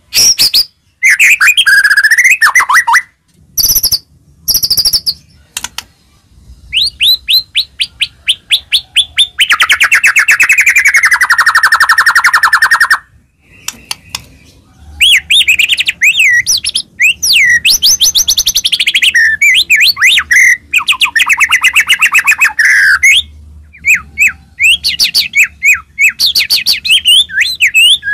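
White-rumped shama (murai batu) in full song: loud phrases of rapid trills and sweeping whistles, broken by short pauses, with one long fast trill about ten seconds in.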